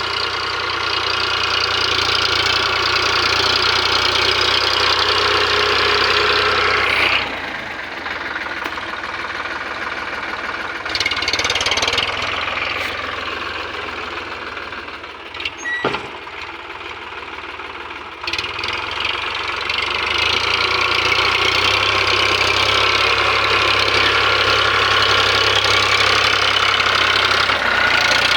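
Eicher 557 tractor's diesel engine running continuously while levelling a field, loud at first, dropping quieter about seven seconds in, then rising loud again for the last third.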